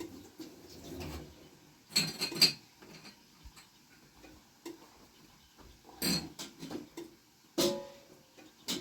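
A few separate clinks and knocks of kitchenware, each with a short metallic ringing, spaced a second or more apart.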